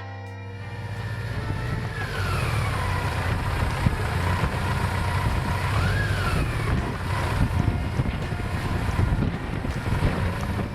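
Motorcycle engine running at road speed under heavy wind noise on the microphone. Its note falls a couple of seconds in and rises and falls again near the middle.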